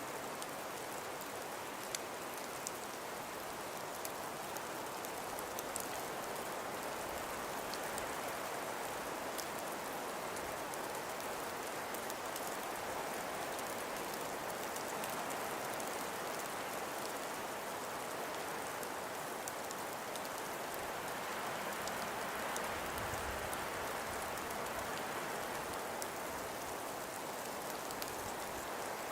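Steady hiss of wind and falling snow, swelling gently now and then, with faint scattered ticks like grains of snow or ice striking a surface.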